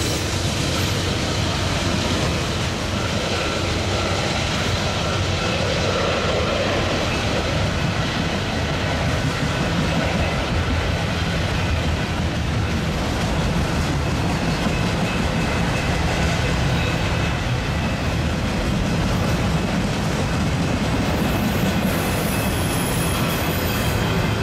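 Loaded Union Pacific autorack freight train rolling past through a track crossover: a steady rumble of cars on the rails with a faint, steady high wheel squeal.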